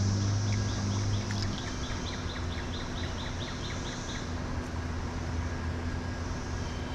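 Stream-side ambience: running water under a steady high cicada drone that fades about four seconds in, with a bird's quick repeated chirps, about four a second, over the first few seconds.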